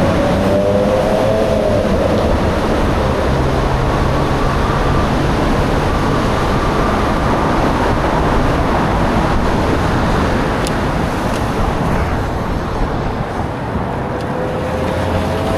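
Steady rush of wind on the microphone and wet road noise while riding through rain. A faint whine runs underneath, falling in pitch at the start and rising again near the end.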